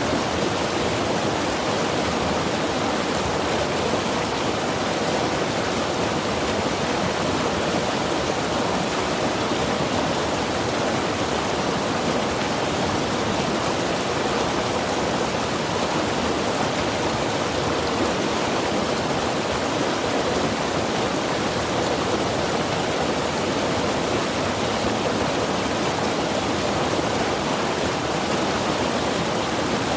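Mountain river rushing over rocks in a steady, unbroken wash of water noise.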